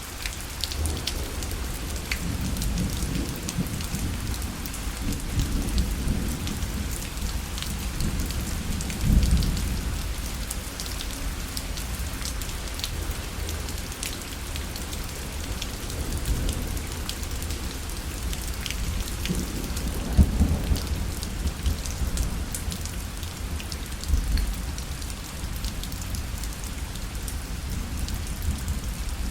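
Rain falling on a fabric parasol: a steady patter of drops hitting the canopy, with a low rumble that swells about nine seconds in and again, loudest, about twenty seconds in.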